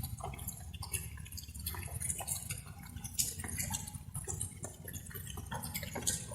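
Light rain: many drops falling and dripping at irregular intervals, over a steady low water sound.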